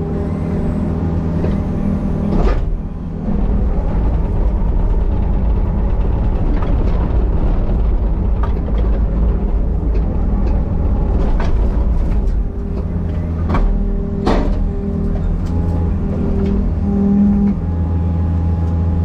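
Excavator's diesel engine running steadily under hydraulic load, with a few sharp knocks, the loudest about two and a half and fourteen seconds in.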